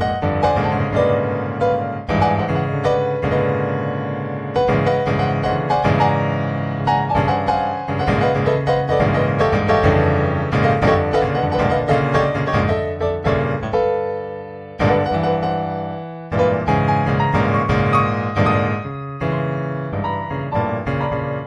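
Background piano music: a solo piano piece with many quick notes.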